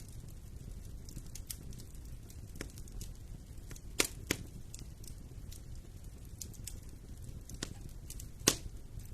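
Fire burning in a fireplace, crackling with a steady low rumble under scattered small clicks. Two sharp pops about four seconds in, close together, and a louder one near the end.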